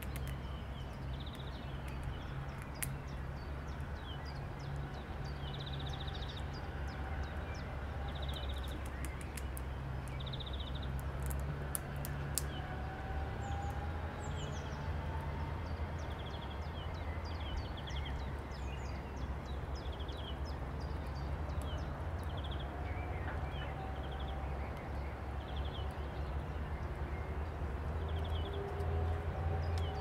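Birds chirping in short repeated notes, with a few faint drawn-out whistled calls, over a steady low rumble; scattered small sharp clicks run throughout.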